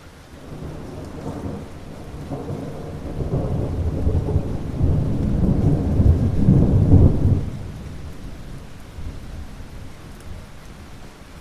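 A long roll of thunder over steady rain: the rumble builds over several seconds, is loudest a little past the middle, then dies away, leaving the rain.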